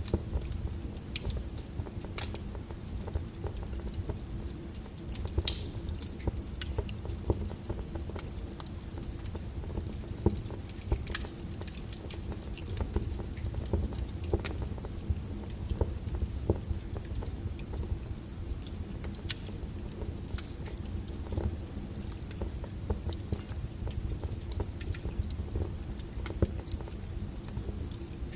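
Wood fire burning in a fireplace: logs crackling and popping at irregular moments, some pops sharper than others, over a steady low noise of the flames.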